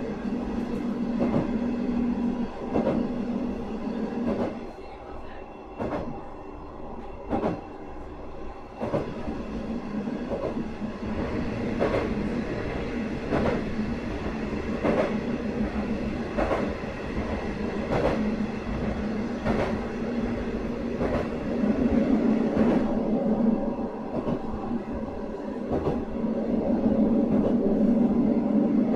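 Sanriku Railway 36-700 series diesel railcar running, heard from inside: a steady engine drone, with the wheels clicking over rail joints about every one and a half seconds. The drone fades for a few seconds about five seconds in, then returns and grows louder near the end.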